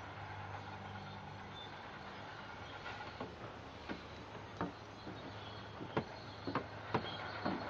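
A steady low machine hum, with a series of sharp clicks and knocks starting about three seconds in, about one every half second to second.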